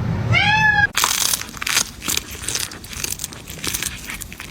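A cat meows once, a short call that rises and falls. It is followed by a run of rapid, irregular crunching, a cat chewing something crisp.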